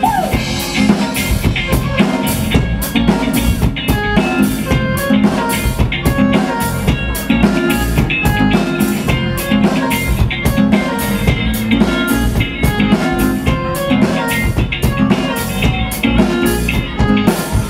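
Live cover band playing an instrumental break: a drum kit keeping a steady beat with bass drum and snare, under electric guitar and bass, with no vocals.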